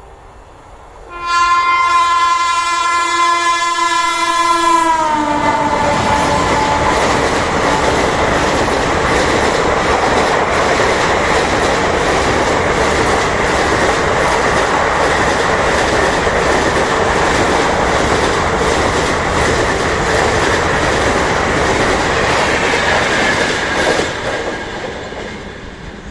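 WAP-7 electric locomotive's horn honking loudly for about four seconds, its pitch dropping as the locomotive passes. It is followed by the steady rush and clickety-clack of the train's coaches running through the station, fading near the end.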